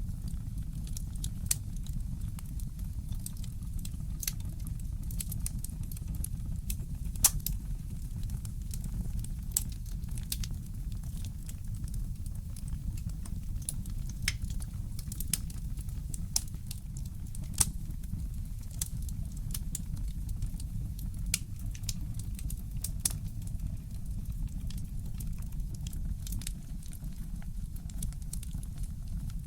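Fireplace crackling: irregular sharp pops and snaps of burning wood, a few louder than the rest, over a steady low rumble.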